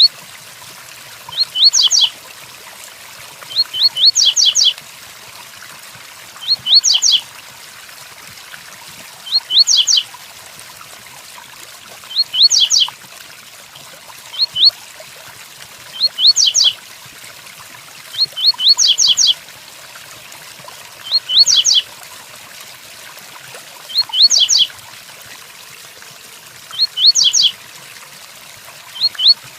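Double-collared seedeater (coleiro) singing the tui-tuí song: a short burst of quick, high, rising whistled notes, repeated about every two and a half seconds. Under it runs a steady hiss of rain.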